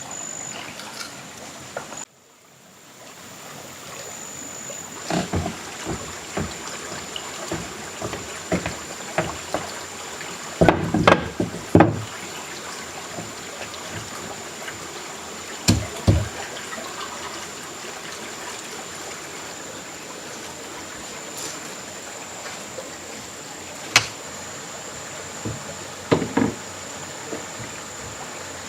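Steady hiss with a thin high whine, broken by scattered knocks and thuds, several close together about ten to twelve seconds in.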